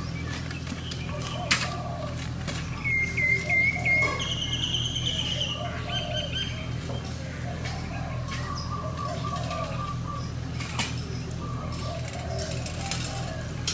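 Birds chirping and trilling a few times from about three seconds in, over a steady low hum of outdoor street ambience.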